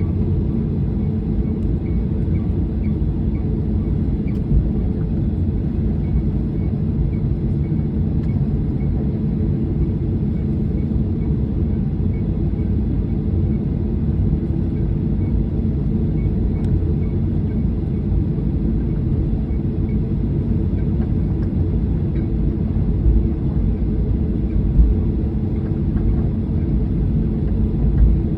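Steady low rumble of an airliner heard from inside the passenger cabin, with a few brief bumps near the end.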